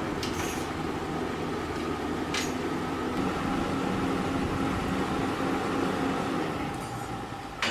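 Small electric motor of a radio-controlled construction model running steadily with a mechanical hum, with a sharp click near the end.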